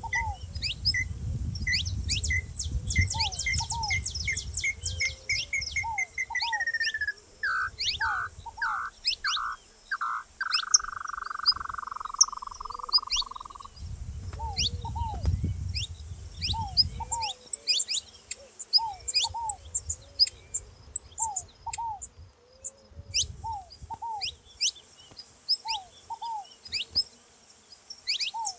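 Saffron finches calling with many quick, sharp high chirps, mixed with the soft repeated cooing of a ground dove (rolinha). Partway through, a series of notes speeds up and slides down into a long buzzing note lasting a few seconds. A low rumble comes and goes underneath.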